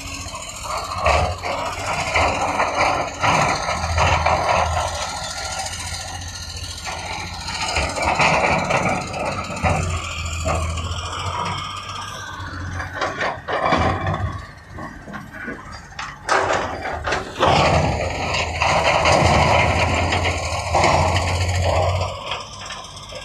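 Heavy construction machinery running under load: a steady diesel engine drone, broken by frequent irregular knocks and scrapes.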